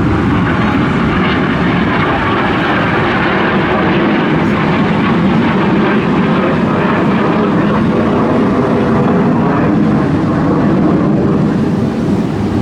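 An aircraft flying past, its engine noise a loud, steady rush.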